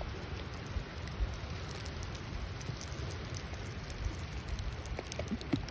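Steady rain falling, an even hiss, with a few soft knocks and clicks near the end.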